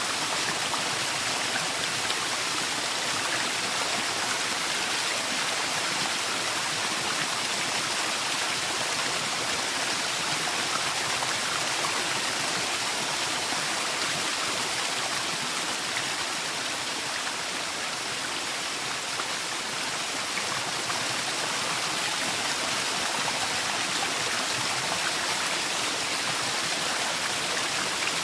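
Waterfall: steady rush of falling water, an even hiss without breaks.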